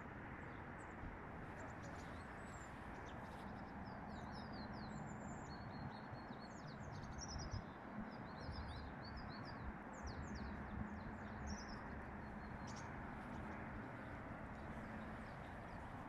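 Small birds chirping, a run of quick high chirps from about three seconds in until about twelve seconds, over steady low background noise.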